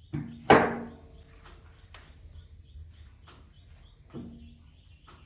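A few hard knocks of objects being handled: two sharp ones close together about half a second in, the second the loudest and ringing briefly, and a softer one a little after four seconds.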